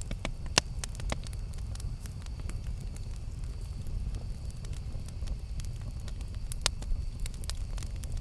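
Campfire burning with a steady low rumble and irregular sharp wood crackles and pops, two of them standing out about half a second in and near the end.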